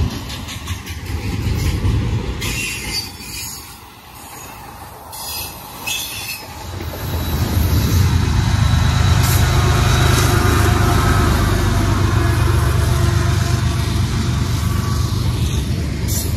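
A train rolling past on the tracks: a heavy low rumble that eases off for a few seconds with a few sharp clicks, then builds up again about six seconds in and holds steady.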